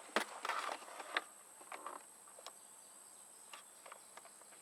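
Quiet outdoor background with a steady high hiss, and a few light knocks and scuffs in the first second or so.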